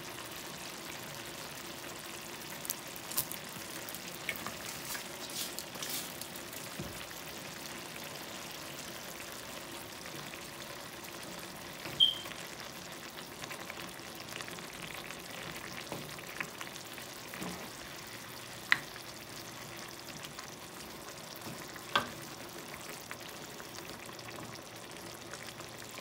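Chicken in barbecue sauce simmering in a pan, a steady soft sizzle, with a few sharp clicks or clinks scattered through it, the loudest about halfway, then twice more later.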